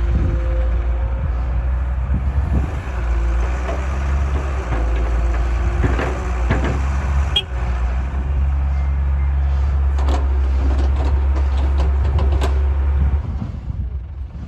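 Heavy diesel engine running steadily with a deep low hum, and a few sharp knocks over it. The engine sound drops away about a second before the end.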